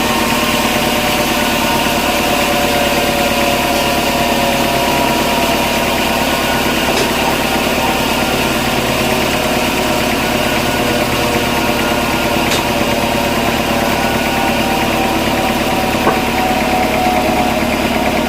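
Sawmill machinery running steadily with an even, engine-like drone, with a couple of faint ticks.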